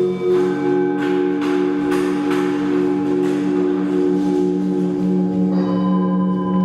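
Several overlapping, long-ringing struck tones with a slow pulsing beat, in the manner of singing bowls. A new, lower tone joins about half a second in, and another higher one about five and a half seconds in.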